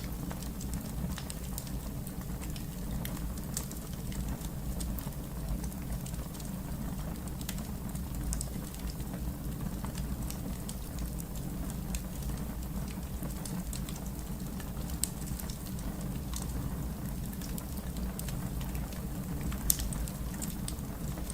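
Wood fire crackling: scattered sharp pops and snaps over a steady low rumble of the burning, with one louder pop near the end.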